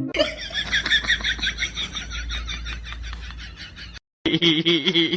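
A bird's rapid, even run of chirping or clucking calls, several a second, fading slightly before it cuts off about four seconds in. Near the end a person's voice is heard.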